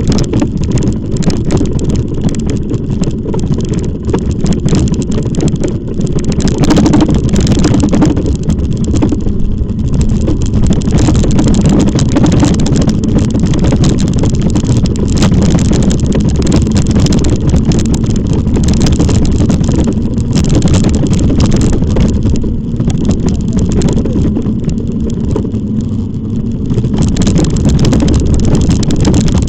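Loud, steady wind rumble buffeting the microphone of a camera on a moving e-bike, mixed with road and tyre noise and irregular crackles.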